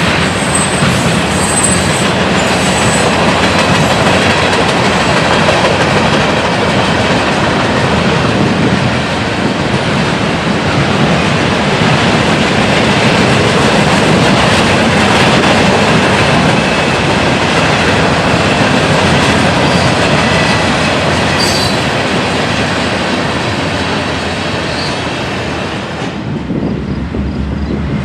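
Loud, steady rumble of a passing train's cars rolling on the rails, with a faint high wheel squeal in the first few seconds. About two seconds before the end the sound thins and changes.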